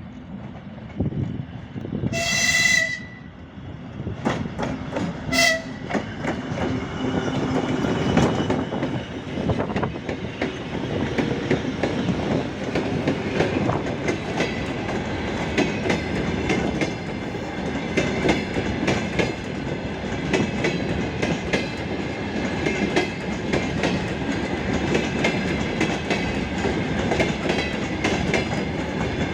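2TE10M diesel locomotive sounds its horn, one blast about two seconds in and a short toot about five seconds in, then its diesel engines run steadily under load as the freight train pulls away, wheels clacking over the rail joints more and more often.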